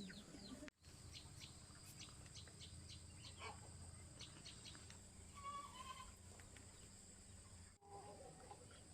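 Faint outdoor ambience: small birds chirping repeatedly, with a short pitched call about halfway through, over a low steady hum. The sound drops out briefly near the start and near the end.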